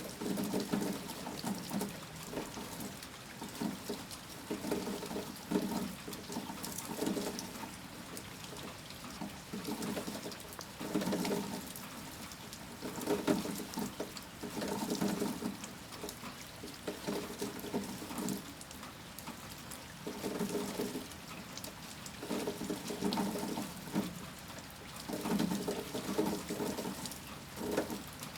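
Rain during a heavy storm: a steady hiss with water pouring and splashing in uneven gushes about every two seconds.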